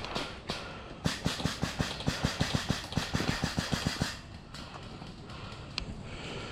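Quick footsteps, about six a second, running from about a second in until about four seconds in, then quieter rustling with a single click near the end.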